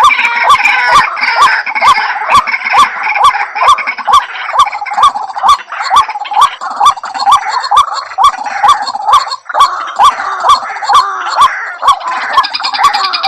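White-breasted waterhen (ruak-ruak) calling: a fast, even run of short hooked "ruak" notes, about two and a half a second, with a sharp click in step with each note.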